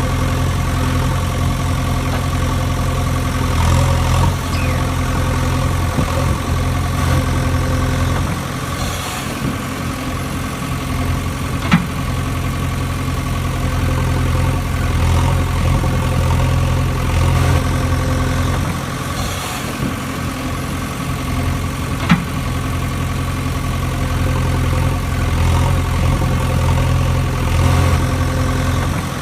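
Engine idling steadily, with slight swells in level, and two sharp clicks, one about twelve seconds in and one about twenty-two seconds in.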